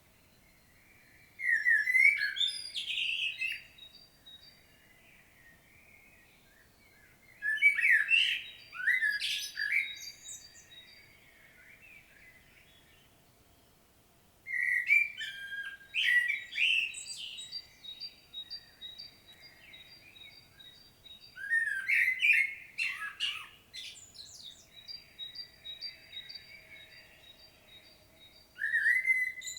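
Common blackbird singing in separate phrases about every six to seven seconds, five in all, the last cut off. Each opens with mellow fluted notes and breaks into higher, scratchier twittering. A thin train of short, evenly spaced high notes trails after several phrases.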